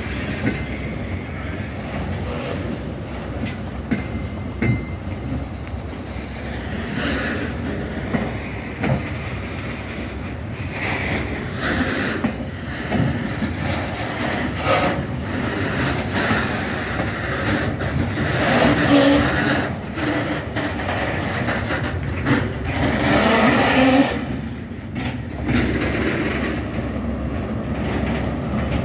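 Passing delivery train of new Merseyrail Class 777 units and wagons: wheels clattering and rumbling steadily along the rails, with two louder rattling stretches in the second half as the wagons go by.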